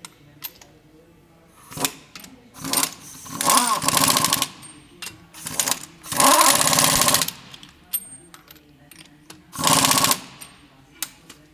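Pneumatic air tool running in five or so bursts of rapid hammering, each half a second to a second and a half long, typical of an impact wrench or air hammer being worked on the truck.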